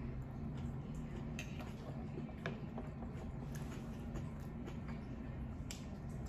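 A person chewing a mouthful of tater tots topped with hamburger meat and cheese, with a few scattered short wet clicks over a steady low hum.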